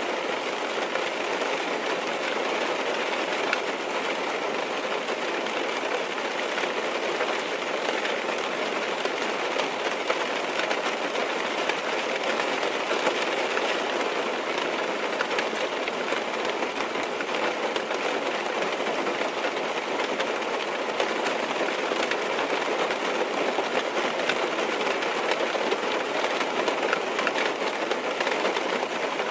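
Rain falling on a car's roof and glass, heard from inside the car: a steady hiss thick with small drop ticks.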